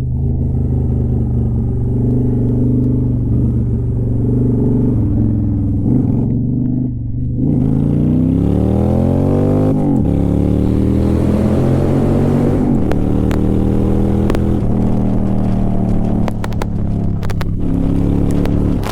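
Honda Shadow Aero 750's V-twin exhaust under way: steady cruising for about seven seconds, then accelerating with a rising pitch, a drop at a gear change about halfway, and another climb before it settles to a steady cruise. A few sharp clicks near the end.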